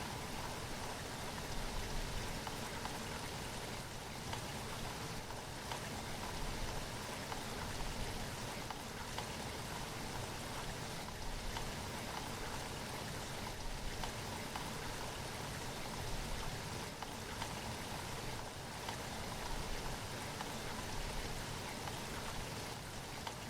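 Steady rain falling, with scattered single drops heard distinctly over the even hiss.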